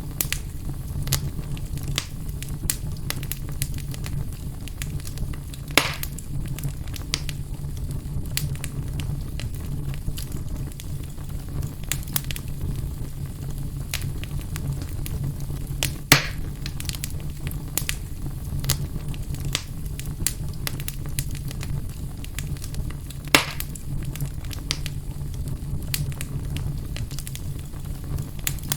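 Wood fire burning in a fireplace: a steady low rumble with frequent small crackles and three louder pops spread through.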